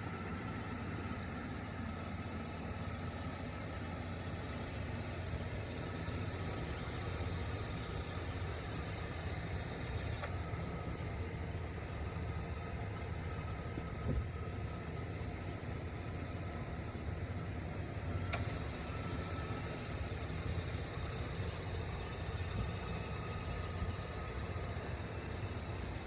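1999 Dodge Ram 1500 pickup's engine idling steadily, with a few brief clicks.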